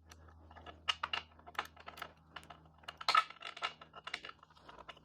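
Light, irregular metallic clicks and clinks of a 1/4-inch drive socket wrench with a universal joint and 8 mm socket being fitted and worked on small bolts, with a short cluster of clicks about three seconds in.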